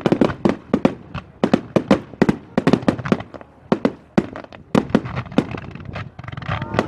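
Fireworks display: a rapid, irregular barrage of sharp bangs and crackles, several a second, each followed by a short echo.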